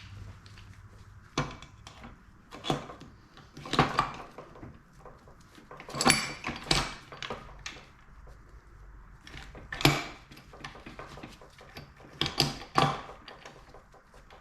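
Irregular metallic clinks and knocks of YZ125 transmission gears and shafts being handled and refitted into the crankcase half, with a faint low hum underneath.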